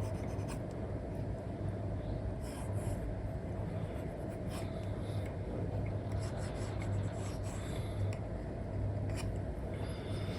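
Apple Pencil with a paper-feel nib scratching across a paper-textured screen protector on an iPad, in short irregular strokes over a steady low hum.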